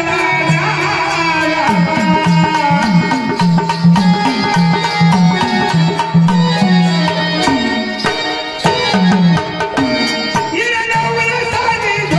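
Instrumental interlude of Marathi gondhal folk music: hand drums play a steady rhythm under a pitched melody instrument, with no singing.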